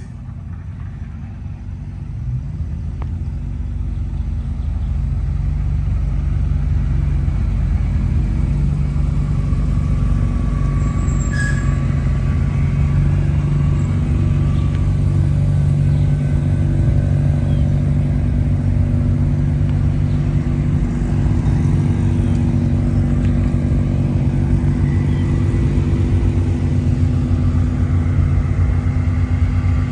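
A car engine running steadily with a low, even sound. It grows louder over the first few seconds, then holds.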